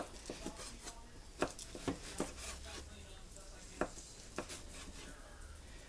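A kitchen knife cutting cooked pork loin into slices and small pieces, the blade knocking on the cutting board now and then in an uneven rhythm.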